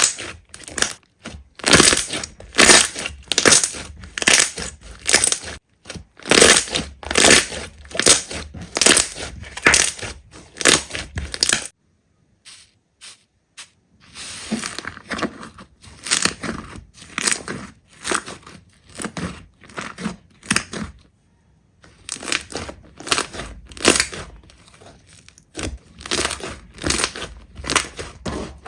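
Slime being squeezed and pressed, making repeated crunching crackles about two a second, broken by two short silences.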